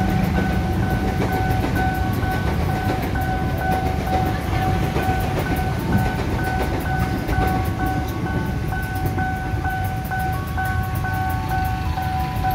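The KA Bengawan passenger train's coaches rumble past a level crossing. Over it, the crossing's electronic warning bell sounds a rapid, steady two-tone beeping, two or three beeps a second.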